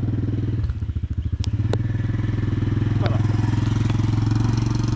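Small motorbike engine running steadily, briefly easing off about a second in so that its separate firing pulses come through, then picking up again.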